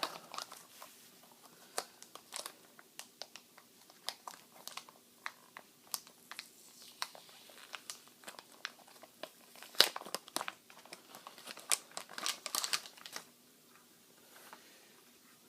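Plastic packaging crinkling and crackling in quick, irregular bursts as it is handled and opened, busiest near the end and stopping a couple of seconds before the end.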